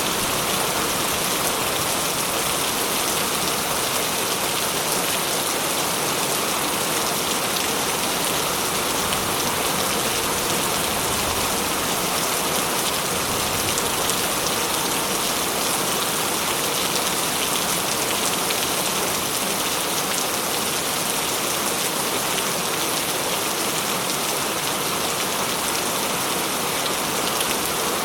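Steady heavy rain falling and splashing on surfaces, an even hiss with no let-up.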